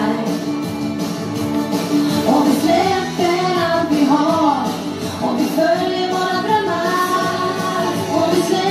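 A woman singing into a handheld microphone over instrumental backing music, her voice rising and falling in sung phrases.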